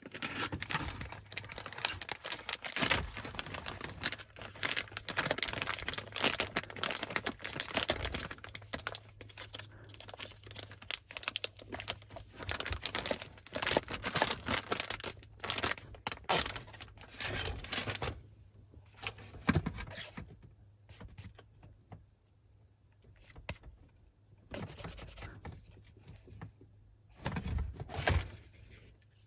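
Plastic packaging being torn open and crinkled by hand: dense rustling and crackling for most of the time, thinning to a few separate rustles near the end, with a faint low hum in the second half.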